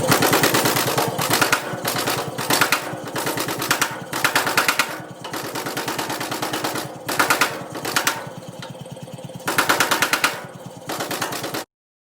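Rapid, continuous hammer blows on steel as a knife blade is forged, coming in louder and softer stretches, then cutting off suddenly near the end.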